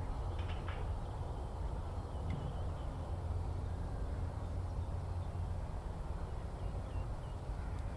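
Rural field ambience: a steady low rumble with a few faint, short bird calls, one pair near the start and scattered ones later.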